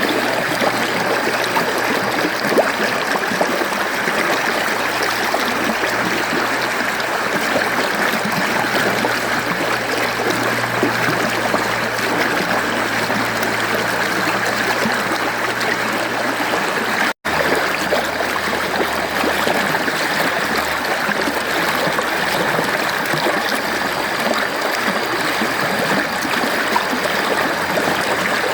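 Mountain stream water flowing and splashing in a steady, even rush, with a momentary break in the sound about two-thirds of the way through.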